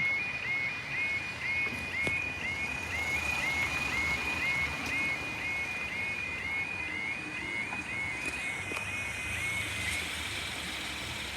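Railway level crossing audible warning: a two-tone electronic yelping alarm repeating a little over twice a second, stopping about ten seconds in, the sign that the crossing barriers are lowering for an approaching train.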